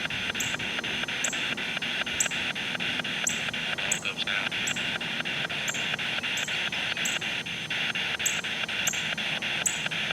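Spirit box sweeping through radio stations: steady static chopped into about five clicks a second, with a higher chirp repeating less than a second apart.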